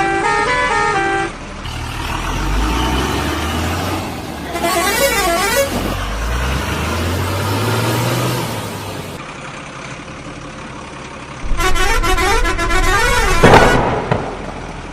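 Truck horn and engine sounds: a stepped musical horn tune at the start, warbling up-and-down horn blasts around five seconds in and again from about eleven seconds, over a low engine rumble that rises in pitch in between.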